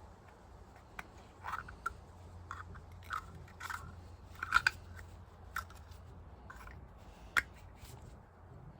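Light metal clicks and scrapes at irregular intervals as the old oil filter's spring and gauze are handled and worked out of the filter body, over a low steady hum.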